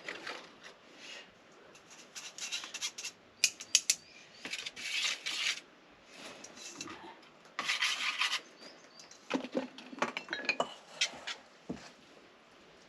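Kitchen utensils scraping and clinking against a bowl and a metal air-fryer grid as fritter mixture is scooped out, in irregular bursts with a few sharp clinks.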